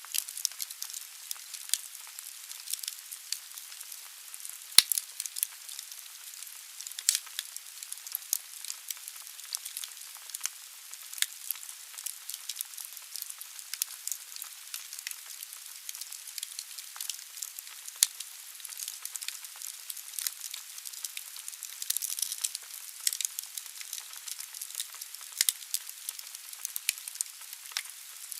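Wood fire burning in a fireplace: logs crackling and popping irregularly over a steady hiss, with two sharp louder pops, one about five seconds in and one at eighteen seconds.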